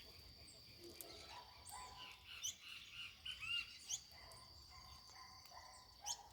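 Wild birds chirping in short, quick calls, busiest in the middle, over a steady high-pitched tone.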